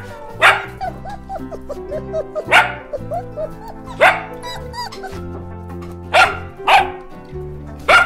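A Pomeranian puppy barking, about six short, sharp barks a second or two apart, over background music.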